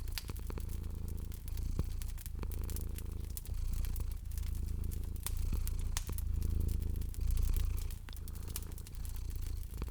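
Domestic cat purring, a low rumble that swells and eases with each breath, over a wood fire crackling with frequent sharp pops.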